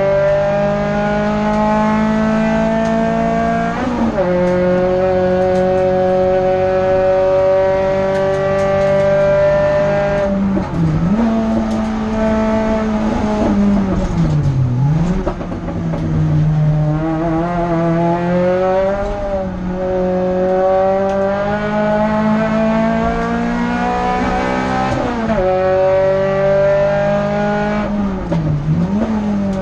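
Renault Clio F2000 hillclimb car's engine heard from inside the cabin under hard acceleration: the revs climb slowly, with sharp drops at upshifts about four seconds in and again near the end of the run's climb. Around the middle and near the end the revs fall with short blips, as the driver brakes and changes down for corners.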